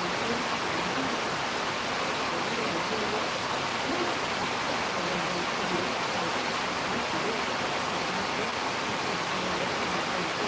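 Steady, even rushing noise of a storm at night, with wind and rain running on without a break.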